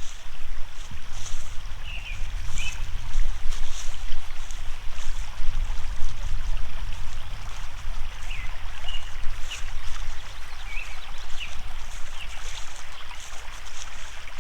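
Wind buffeting the microphone as an uneven low rumble, with small birds giving short chirps every second or two.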